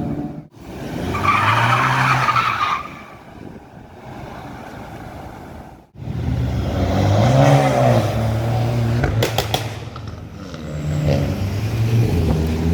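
Car engines accelerating hard and revving past on a street, in short clips cut together; the engine pitch climbs and falls. A quick run of sharp cracks comes about nine seconds in.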